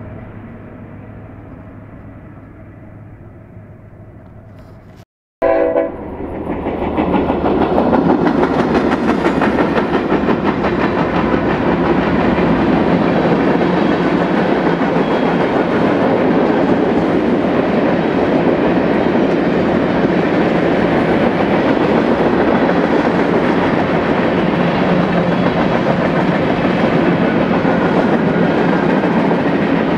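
A diesel locomotive running at a distance, then a short train horn blast and a freight train passing close by. Four GE diesel locomotives go by first, then the steady rolling noise and clickety-clack of freight cars' wheels on the rail.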